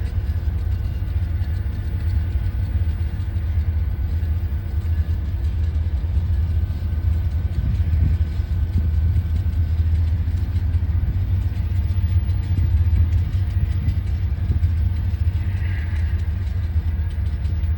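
Passenger train running with a steady low rumble and a faint steady whine above it, one short higher note near the end.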